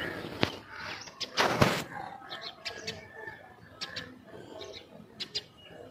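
Small birds chirping in short, scattered calls, with one loud knock about one and a half seconds in.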